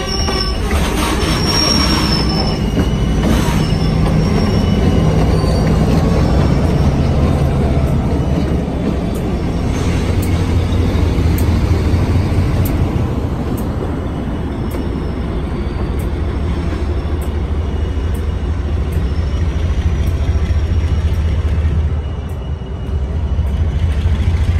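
Slow freight cars rolling past while being shoved by a diesel locomotive. The wheels squeal on the rails in the first few seconds, then the locomotive's engine drone grows as it passes.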